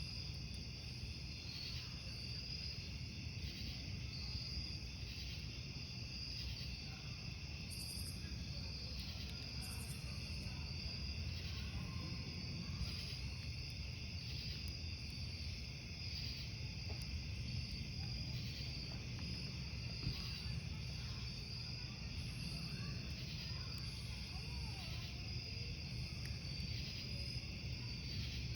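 Crickets chirping in a steady chorus, pulsing in a regular rhythm of about one beat every second and a half, over a low steady rumble.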